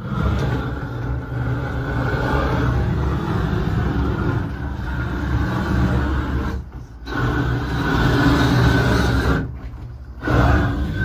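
Propane roofing torch burning steadily with a loud rushing flame noise while torch-down roofing membrane is heated onto a scraped roof. The noise drops away briefly twice, about six and a half seconds in and again about nine and a half seconds in.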